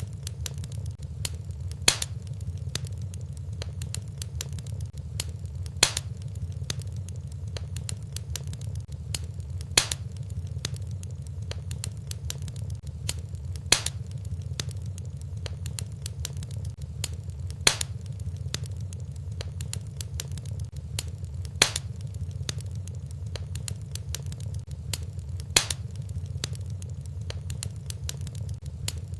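Fireplace fire crackling over a steady low rumble, with small crackles throughout and a sharp, louder pop about every four seconds, evenly spaced as in a looped recording.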